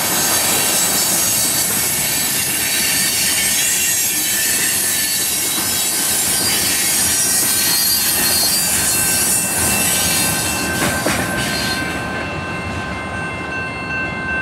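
Freight cars of a Canadian National mixed freight train rolling past, steel wheels running on the rails with a steady high-pitched wheel squeal. About twelve seconds in the rolling noise falls off as the last cars move away, and the squeal carries on.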